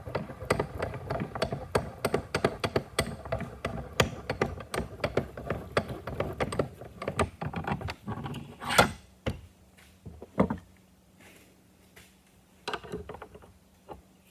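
Metal parts and tools clicking and clinking rapidly as a tractor's hydraulic steering cylinder is taken apart by hand, with one sharper knock about two-thirds through, then only occasional clicks.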